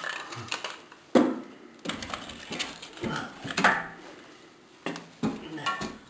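Split firewood being loaded into a wood stove: several sharp knocks and clatters of logs striking each other and the firebox.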